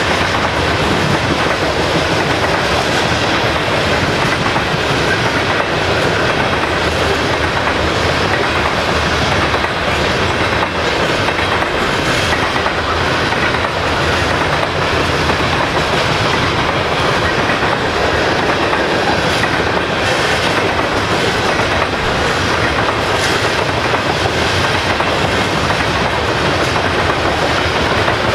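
Freight train of covered hopper cars rolling past, a steady loud noise of steel wheels on rail with a repeated clickety-clack of the wheels over rail joints.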